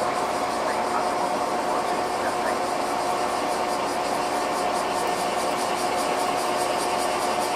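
Inside a JR West 213 series 0 electric train standing still: its onboard equipment hums steadily at one pitch, with a faint, fast pulsing hiss above it and no running noise from wheels or motors.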